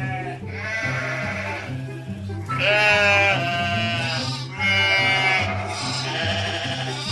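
Sheep bleating several times, long wavering calls each about a second long, over background music with a steady beat.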